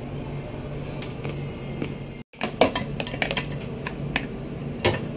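Dishes and containers clinking and clattering as they are handled, over a steady low hum. The sound cuts out for a moment a little over two seconds in, and the clinks come more often after that.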